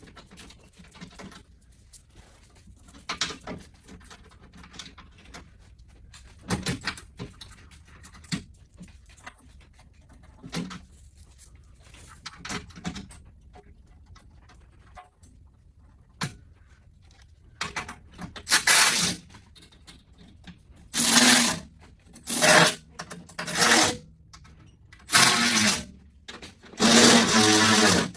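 Light clicks and rustles of parts being handled. In the last third, a power tool runs in about six short, loud bursts.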